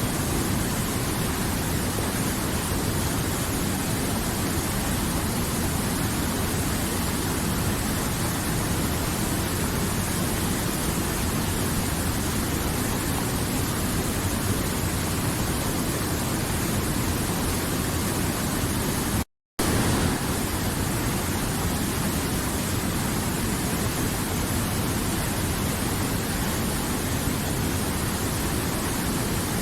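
River water flowing in a steady, even rush. It cuts out completely for a split second about two-thirds of the way through, then resumes unchanged.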